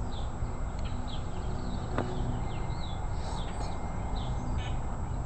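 Wild birds chirping: scattered short, quick tweets over a steady low background rumble.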